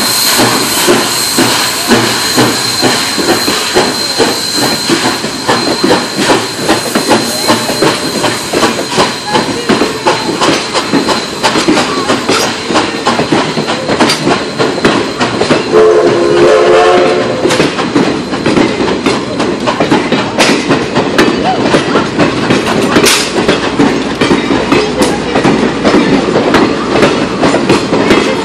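Steam-hauled passenger train rolling past close by, its coach wheels clacking steadily over the rail joints. The locomotive's steam hiss fades over the first few seconds. A brief pitched sound rises over the clatter about halfway through.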